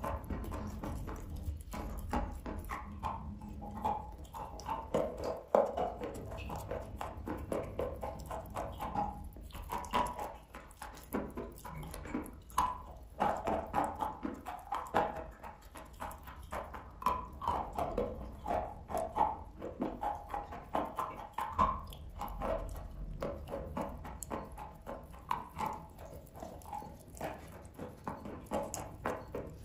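Close-miked chewing of a mouthful of chalk: wet crunching, with many short, irregular crunches and crackles.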